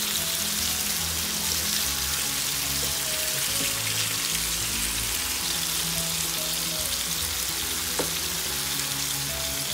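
Carrot, potato and mushroom sizzling steadily in oil in a frying pan as they are turned with a wooden spatula.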